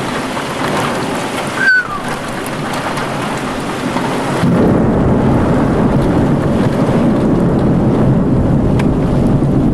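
Heavy thunderstorm rain pouring steadily, with a deep rolling rumble of thunder building about halfway through and continuing. A brief high squeak sounds just under two seconds in.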